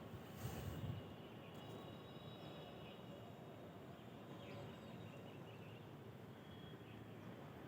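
Faint morning outdoor ambience: a steady low background hiss with scattered, faint bird chirps. A brief low rumble comes about half a second in.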